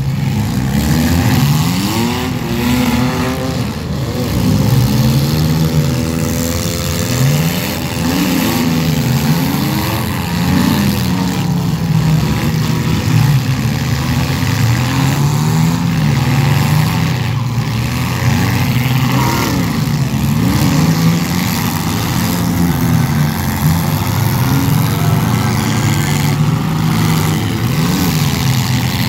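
Several demolition derby cars' engines revving hard together, their pitch rising and falling over and over.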